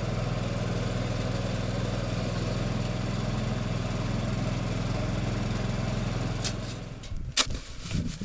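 Small vehicle engine running steadily, then shut off about seven seconds in; a few sharp knocks follow near the end.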